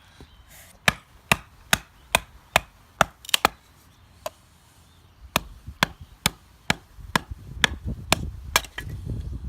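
Firewood being split with a knife batoned through the wood: a run of sharp wooden knocks about two a second, a pause of about two seconds, then another run.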